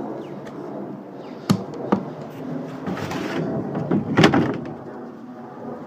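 Top cover of a tailgate salter being unlatched and opened: two sharp clicks about a second and a half in, some rattling, then a louder clunk about four seconds in.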